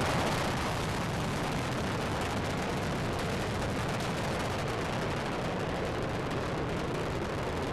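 Space Shuttle Discovery's solid rocket boosters and main engines during ascent: a steady, continuous rocket noise with a dense fine crackle, easing slightly in level about a second in.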